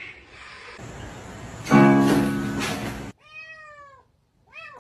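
Cat meowing: a loud, drawn-out cry, then a clear meow that falls in pitch about three seconds in, and another meow starting just before the end.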